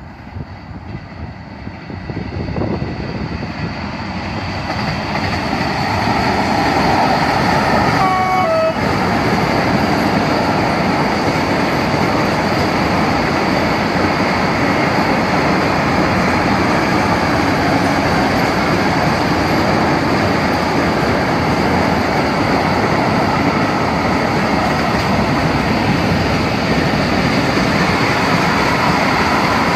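Freight train approaching and passing, the rumble of wheels on rail swelling over the first few seconds and then holding steady and loud. The locomotive's horn gives one short blast about eight seconds in, its pitch dropping at the end.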